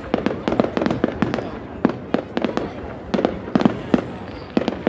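Fireworks exploding overhead: a rapid, irregular run of sharp bangs, several a second, from an aerial display.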